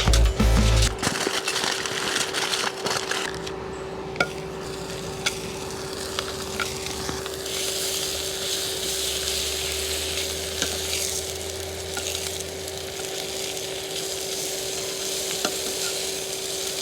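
Food sizzling in a pan over a campfire, with scattered small pops and crackles, over the steady hum of an electric fan.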